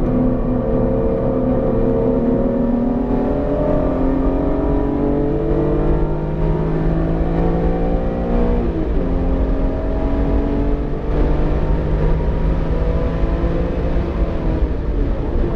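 BMW E46 M3's inline-six engine, freshly built and still being broken in, pulling steadily up the revs for about nine seconds. It drops sharply at a gear change, then holds fairly steady and eases off near the end.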